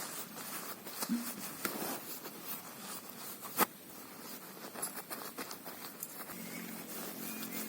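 Rain pattering steadily on a tent, with scattered drips and one sharp tap about halfway through. Near the end a low, steady motor hum comes in.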